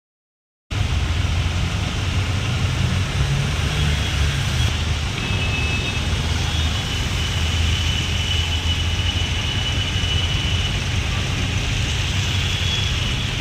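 Steady traffic noise of vehicles on a waterlogged road: a deep rumble under a constant hiss, starting abruptly under a second in.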